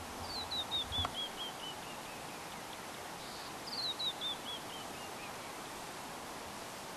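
A bird singing twice: each song is a run of about ten short, clear notes that fall steadily in pitch. A soft bump comes about a second in, over a steady background hiss.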